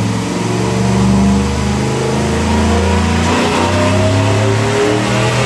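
Chevy 5.3 V8 with a BTR Truck Norris camshaft running hard under load during a chassis-dyno pull, with a brief break in the engine note about three and a half seconds in.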